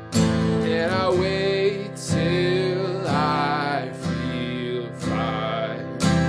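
Strummed Martin GPCPA4 acoustic-electric guitar with a man singing over it, holding long wavering notes with vibrato between sharp strums near the start, about two seconds in and again near the end.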